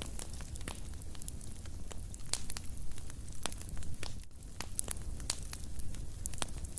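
Wood fire in a fireplace crackling: many sharp, irregular pops and snaps over a steady low rumble of burning.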